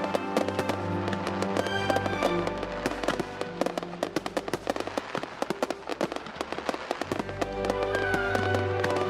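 Fireworks bangs and rapid crackling over background music. From about three to seven seconds in, the music thins out and a fast run of crackles takes over, then the music fills back in.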